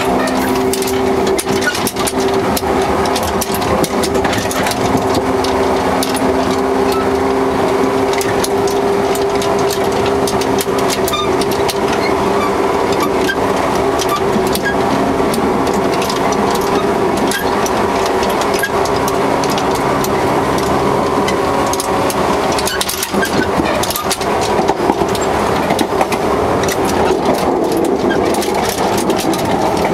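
Onboard running sound of a JR 115 series 3000-subseries electric train heard close to the coupler: a continuous rumble with constant rattling and clicking from the coupler, and a steady hum that fades about halfway through.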